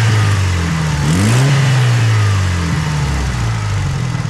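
Turbocharged 4G63 inline-four of a Mitsubishi Lancer Evolution VIII tuned to about 400 hp, blipped from idle a few times with light throttle. The longest rev starts about a second in and is held briefly before dropping back toward idle. The revving is meant to bring out a light tick at tip-in that the owner suspects is an exhaust leak at the downpipe or turbo manifold gasket.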